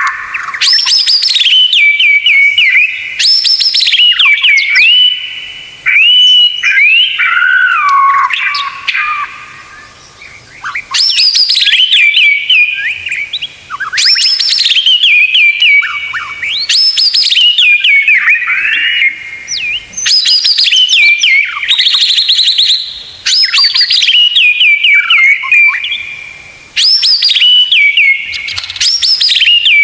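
White-rumped shama (murai batu) singing loud, repeated whistled phrases: each rises in a quick sweep, falls in stepped notes and settles on a held note, coming back every few seconds, with a fast rattling run about three-quarters of the way through.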